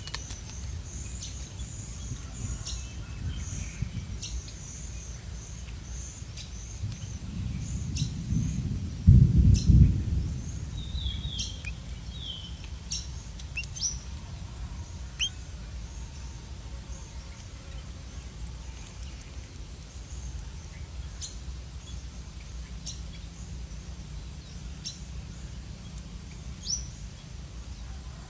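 Small birds giving scattered short, high chirps and calls, with a run of faint repeated high notes in the first few seconds. A loud low rumble comes about nine seconds in and lasts about a second.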